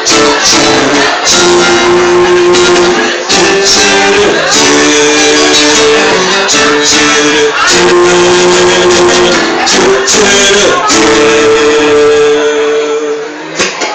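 Live band music: an instrumental passage between verses, with guitar and long held notes over a steady beat.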